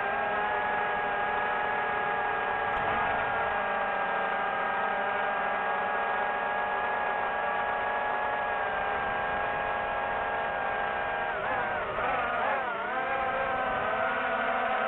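Small quadcopter drone's propellers whining steadily in several tones, with a brief dip and rise in pitch near the end as the drone changes speed.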